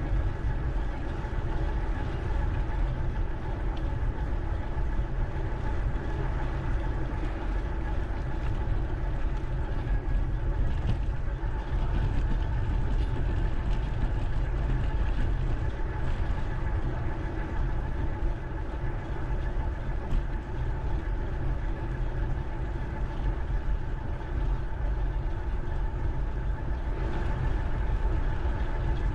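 Steady wind and riding noise on an action camera's microphone during a bike ride: a continuous low rumble with a faint steady hum over it.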